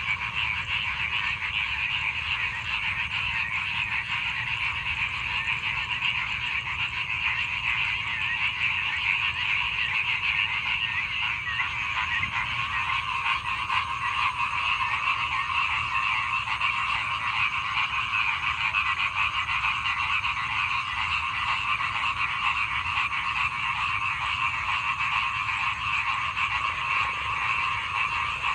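Many frogs calling together in a dense chorus that goes on without a break.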